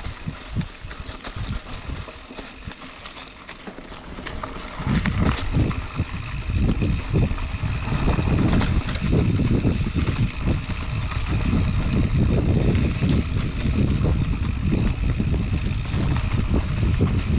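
Mountain bike riding over a dirt trail: tyres and rattling knocks over rough ground, turning into a loud, steady low rumble from about five seconds in as the bike picks up speed.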